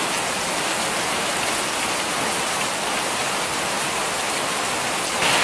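Tropical rain pouring down steadily, growing a little louder near the end.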